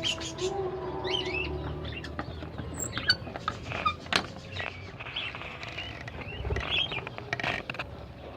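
A flock of budgerigars chirping and chattering in short, scattered calls, with a few sharp clicks among them.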